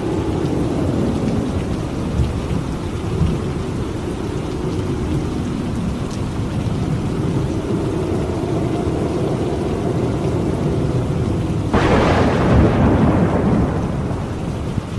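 Thunderstorm: steady heavy rain with low rolling thunder, then a sharp thunderclap breaks about twelve seconds in and rumbles away over about two seconds.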